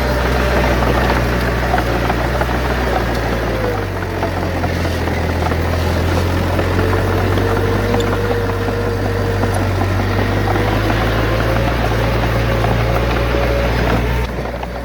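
Heavy diesel engine of earthmoving machinery running steadily. Its note shifts about four seconds in, with a thin whine above it in the middle stretch.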